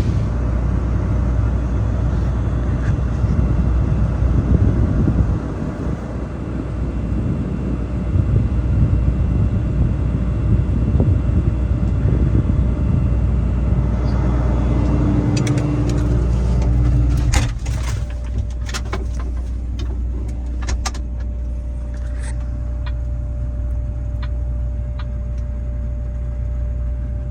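A vehicle engine running with a steady low rumble. About two-thirds of the way in the rumble drops to a quieter hum, with a few clicks and knocks just after the change.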